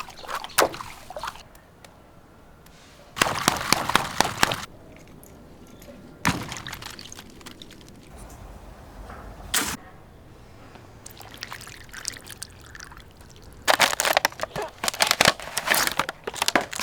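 Water splashing and pouring in bursts, with a couple of short sharp splashes or cracks between them.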